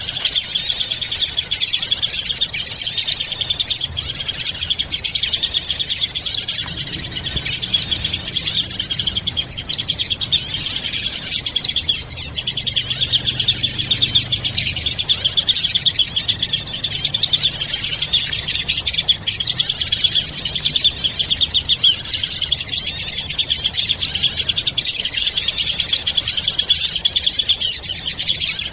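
Bird-lure recording of small birds chirping and twittering densely and continuously, high-pitched, with sharp louder chirps every second or two.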